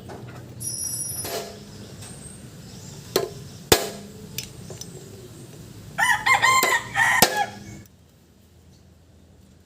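A rooster crowing once, about six seconds in, for under two seconds. A few sharp metallic knocks and a brief ring come before it.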